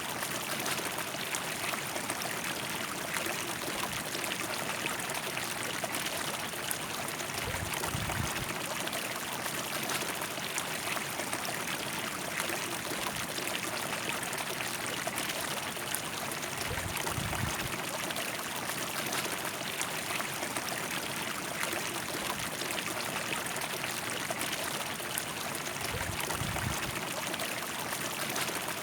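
River flowing steadily, a continuous rushing hiss of water. Three brief low rumbles come in about every nine seconds.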